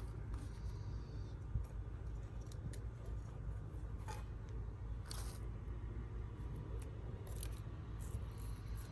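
Wood fire just catching in a fire stand, giving scattered small crackles and snaps over a steady low rumble.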